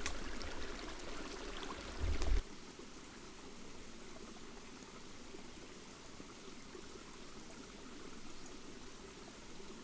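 River water flowing, a steady rush. A low rumble underneath swells about two seconds in and cuts off abruptly a moment later.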